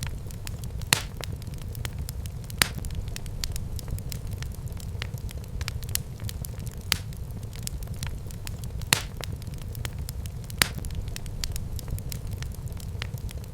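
Wood fire burning in a fireplace: a steady low rumble of the flames with constant small crackles and a louder sharp pop every second or two.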